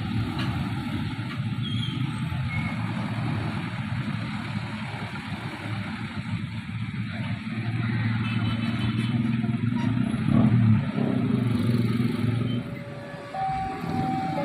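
Steady engine rumble of passing motor vehicles, with an engine hum swelling to its loudest a little past the middle. Near the end a two-tone warning signal starts, switching between a lower and a higher tone about once a second.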